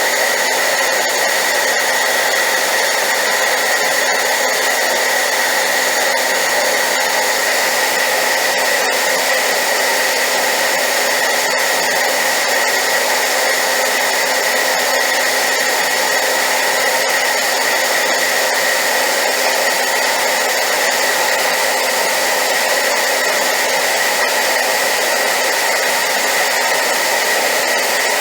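A hairdryer running at high power, a loud, steady whooshing rush with a constant whine, used as white noise.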